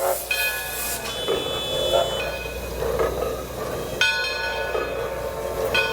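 Railroad locomotive bell ringing, with a struck, decaying tone repeated about every two seconds.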